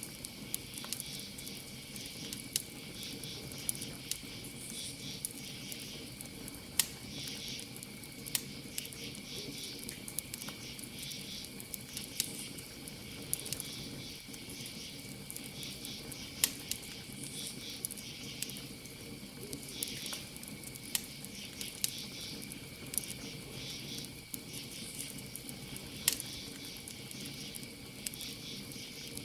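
Campfire crackling with irregular sharp pops, the loudest sounds, every second or two, over a steady chorus of chirping crickets.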